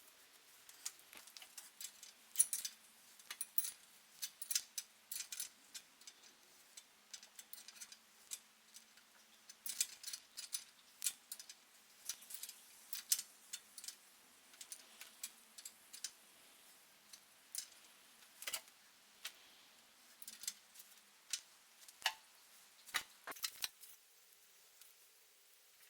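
Irregular light clicks and ticks of small metal parts and hand tools being handled during bicycle work, some louder taps near the middle and a cluster of sharp clicks near the end.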